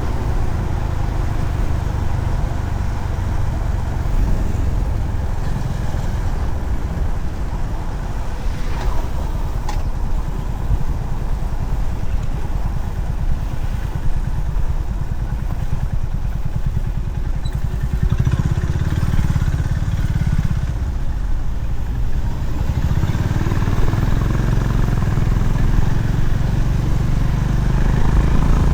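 Honda CB350RS's single-cylinder engine running on the move, a steady low throb that swells louder in the last third.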